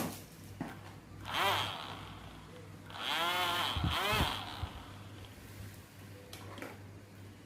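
Small electric drone motor with a propeller, throttled up and down in short bursts: three quick whines that rise and fall in pitch, then a few light clicks near the end.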